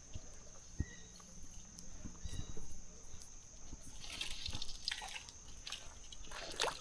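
A steady high-pitched insect chorus, with scattered soft knocks and a brief noisy patch about four to five seconds in.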